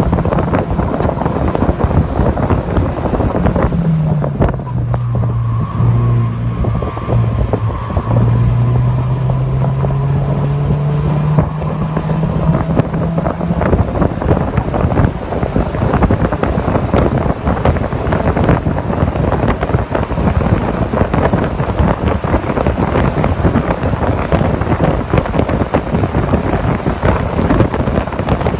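Heavy wind buffeting on the microphone of a car at speed, with the engine note of a Mazda MX-5 (NC) showing through from about four seconds in: it drops, holds, then climbs steadily under acceleration before being buried in the wind again.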